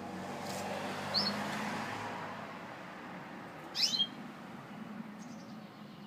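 Gloster canary giving short, high chirps: a brief one about a second in and a louder cluster of quick falling chirps near four seconds, over a steady rushing background that is louder in the first half.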